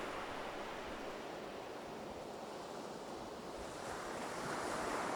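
Surf washing onto the beach, a steady rush that eases in the middle and swells again about two-thirds of the way through.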